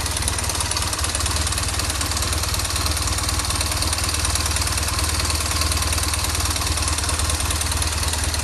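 BMW R 1200 R boxer-twin engine running steadily with an extra mechanical noise from the timing drive. It is the sign of a seized cam chain tensioner piston, which most likely leaves the timing chain hanging slack; the valves are in order, and pulling or releasing the clutch does not change it.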